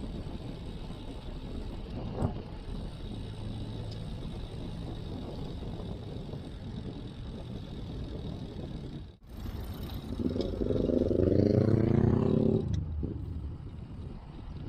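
Steady wind and road noise of a bicycle ride on a chest-mounted camera, with a single click about two seconds in. About ten seconds in, a motor vehicle's engine passes close by, loudest for a couple of seconds and then fading.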